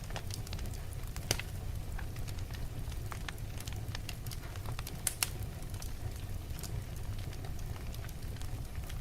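Wood fire burning in a fireplace: a steady low rumble with scattered sharp crackles and pops. The loudest pop comes about a second in, and two more come close together a little past the middle.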